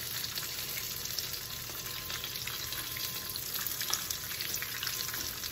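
Breaded chicken strips shallow-frying in hot olive oil in a skillet: a steady sizzle with many small crackles as they are turned with tongs. The oil is hot enough that the strips are browning faster than intended.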